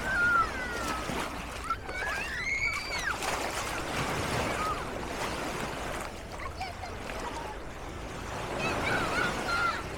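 Beach ambience: a steady wash of surf and distant crowd, with high-pitched voices calling and shouting out now and then, loudest about two to three seconds in and again near the end.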